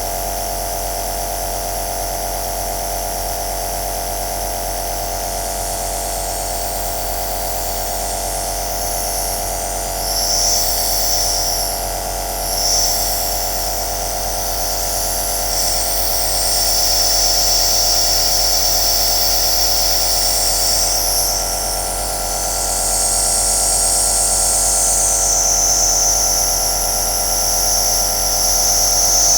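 Compressor nebulizer running: a steady motor hum with a hiss of air and mist on top. The hiss swells and fades at times from about ten seconds in.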